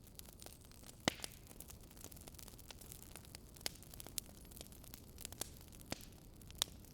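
Campfire crackling: wood burning with a steady low hiss and irregular sharp pops, the loudest about a second in.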